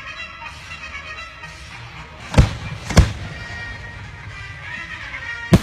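Firework shells bursting: two booms about half a second apart a little before the middle, and another near the end, over music playing throughout.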